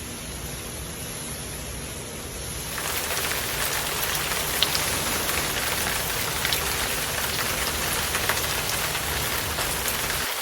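Hard rain falling steadily, turning heavier and louder about three seconds in, with a few sharper drop ticks standing out from the hiss.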